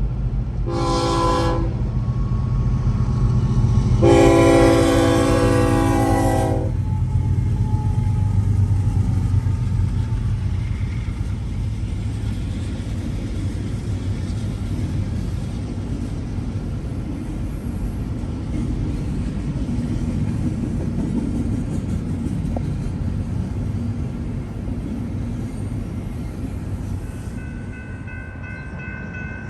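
Train locomotive horn sounding a short blast and then a long one, the close of a grade-crossing horn signal, over the low rumble of the train rolling past. A steady rumble and rail noise continue after the horn. A few steady high tones come in near the end.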